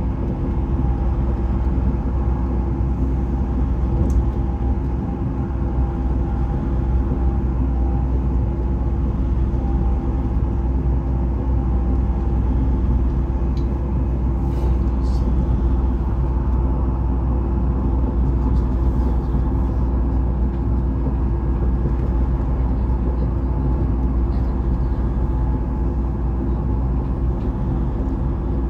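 Inside a Vy passenger train running at speed: a steady low rumble of the wheels on the track, with a steady hum over it.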